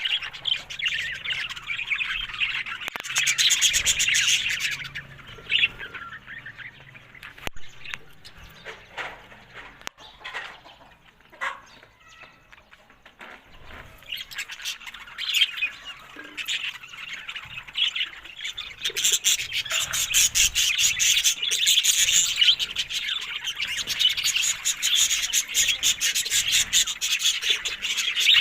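Budgerigars chattering and warbling with quick chirps: busy at first, thinning to scattered chirps for several seconds in the middle, then building back into dense, continuous chatter.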